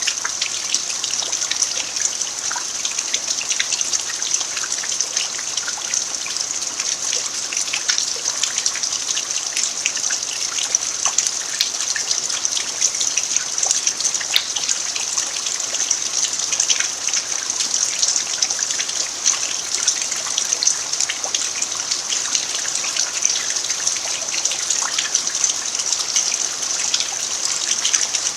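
Steady rain falling on an earthen yard: an even hiss with many separate drop hits, unchanging throughout.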